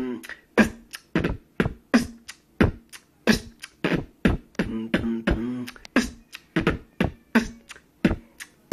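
Human beatboxing: a steady beat of kick and snare sounds made with the mouth, about three to four hits a second, with short hummed bass notes between them.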